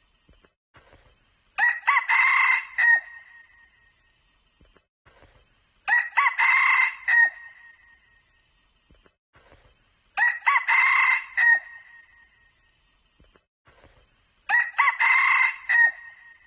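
Red junglefowl crowing, four short crows evenly spaced about four seconds apart.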